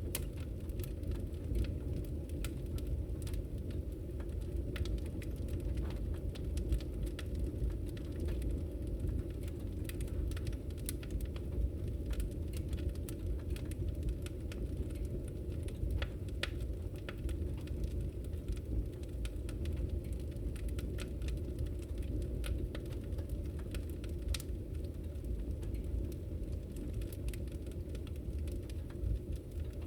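Wood fire crackling in a fireplace: frequent small irregular pops and snaps over a steady low rumble of the burning fire.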